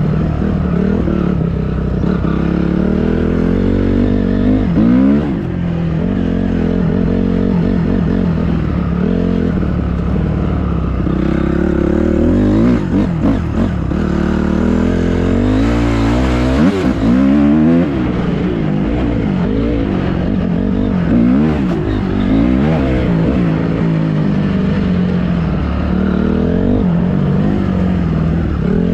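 Dirt bike engine running, its pitch rising and falling as it is revved and ridden, with several quick revs about five seconds in, from about eleven to eighteen seconds in, and near the end.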